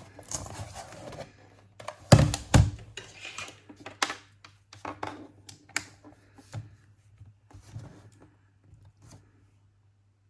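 Irregular clicks, taps and knocks of a laptop being handled on a work surface, with two louder knocks about two seconds in, over a faint steady low hum. The clicking thins out and stops shortly before the end.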